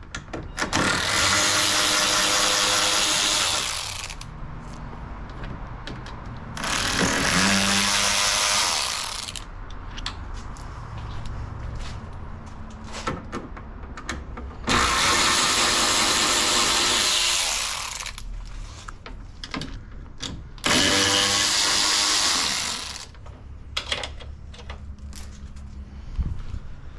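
Cordless power driver backing out the T30 Torx screws that hold a car headlight. It runs in four spells of about three seconds each, with a spin-up whine at the start of each spell, and quieter clinks of handling in between.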